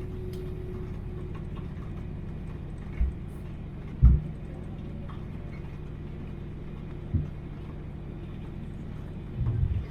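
Steady low vehicle rumble with a hum, broken by four short thumps, the second the loudest.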